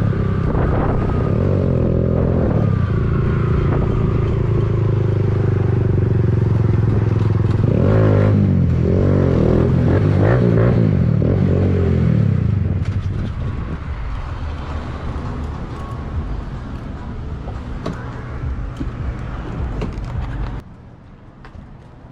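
Motorcycle engine running under way, its pitch rising and falling with the throttle, then settling lower and quieter about halfway through before stopping suddenly near the end.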